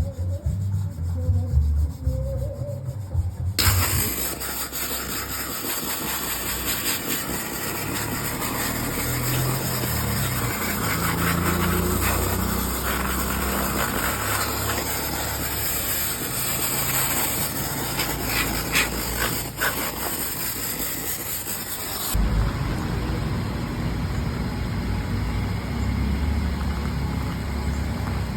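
Sandblaster blasting grit against a BSA WM20 engine housing: a loud, steady hiss that starts suddenly a few seconds in and cuts off suddenly about 18 seconds later. A low, engine-like rumble runs underneath and is left on its own before and after the blast.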